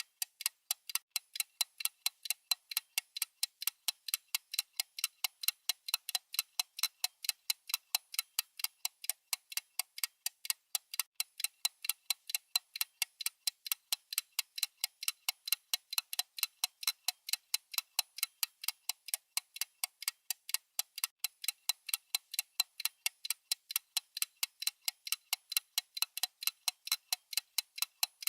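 Clock-style ticking sound effect of a countdown timer: crisp, evenly spaced ticks, several a second, keeping a steady rhythm.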